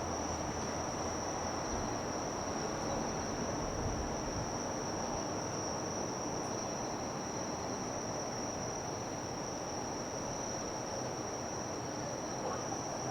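Insects trilling, one continuous high-pitched tone without a break, over steady outdoor background noise.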